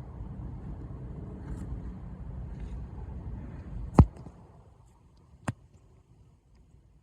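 Steady low rumble that stops with a sharp click about four seconds in, followed by a fainter click a second and a half later.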